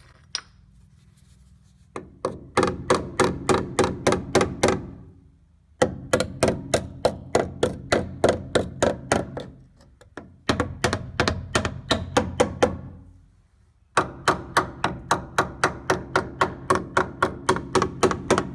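A hammer tapping rapidly along the steel frame rails of a 1985 Toyota pickup in four quick runs of ringing taps, about four a second. The pitch of the taps changes past a certain point, the sign of rust-thinned frame metal.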